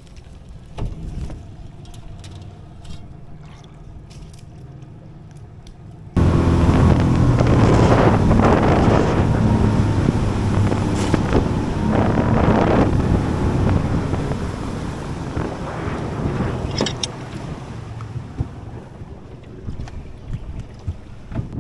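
Small boat's outboard motor idling with wind on the microphone, then suddenly much louder about six seconds in as the boat runs under way, easing off again over the last few seconds.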